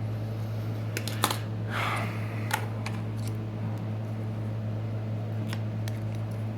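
Scattered sharp clicks and taps, with a brief scrape near two seconds in, as a Galaxy S6 Edge's bent metal frame is worked back straight, over a steady low hum.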